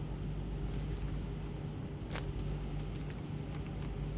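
Steady low hum of a warship's background machinery, with a few faint rustles, the clearest about two seconds in.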